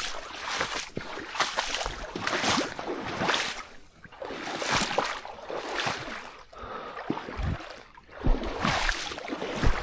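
Water sloshing and splashing in a run of swishes about a second apart, as someone wades through shallow water.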